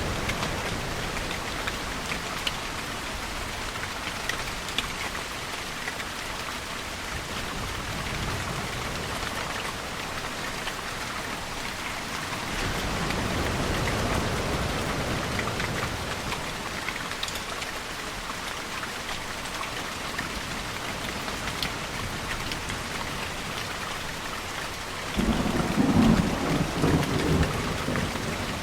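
Steady rain pattering, with a low swell of sound partway through. Near the end a thunderclap breaks in suddenly as a crackling low rumble, the loudest sound here, lasting a few seconds.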